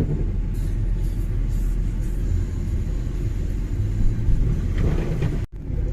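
Car driving on a snowy road: a steady low rumble of road and tyre noise, with a brief dropout near the end.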